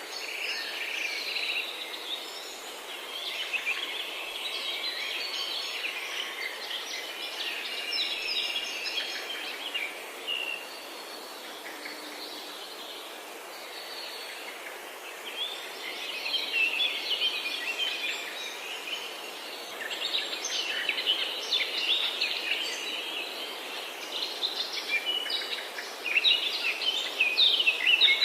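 Several forest birds singing and chirping at once in a busy chorus of quick, overlapping calls, over a steady background hiss. The calling thins out for a few seconds in the middle and is busiest and loudest near the end.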